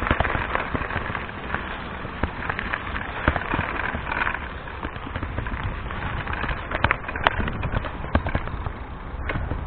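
Mountain bike riding over a dirt trail, with steady tyre noise and many irregular clicks and knocks as the bike rattles over bumps.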